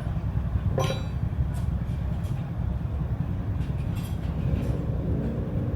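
A steady low rumble with several light metallic clinks, like hand tools knocking on engine parts; the sharpest clink is about a second in.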